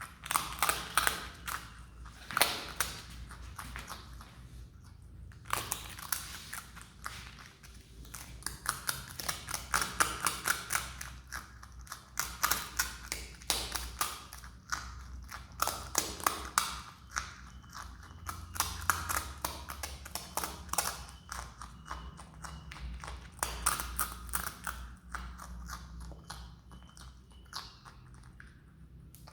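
Himalayan marmot crunching and chewing a rice cake: fast runs of sharp crunches, several a second, broken by short pauses.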